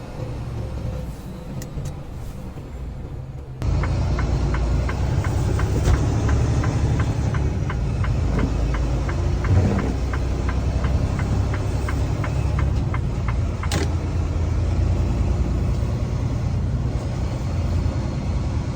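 Steady low engine and road rumble inside a semi-truck cab. From about four seconds in, a turn signal ticks evenly, two to three ticks a second, for about ten seconds, with one sharper click near the end.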